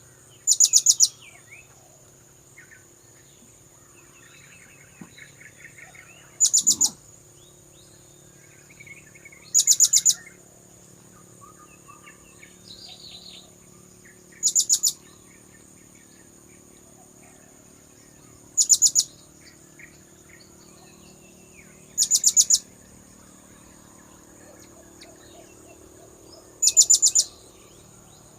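Blue-crowned hanging parrot (serindit) lure call: seven short, very high, rapid trilled bursts a few seconds apart. A steady high-pitched buzz runs underneath, with faint softer chirps between the bursts.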